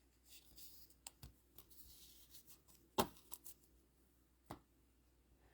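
Trading cards being handled at a table: soft rustles and scattered light clicks as cards are moved and set down, with one sharper tap about three seconds in.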